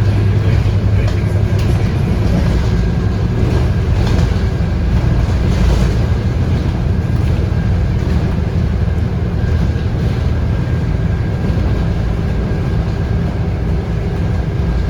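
Scania DC9 five-cylinder diesel of a Scania K230UB bus running steadily under way, heard from inside the cabin along with road noise and a faint steady high whine.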